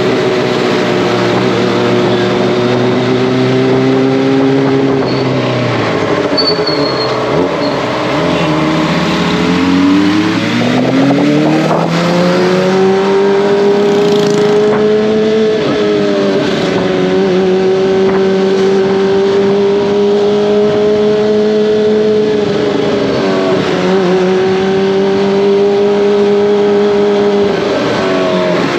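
Kawasaki ZX-25R inline-four engine and exhaust on the move. The engine note drops as the throttle is eased off about five seconds in, climbs back up over the next few seconds, then holds a steady cruising pitch.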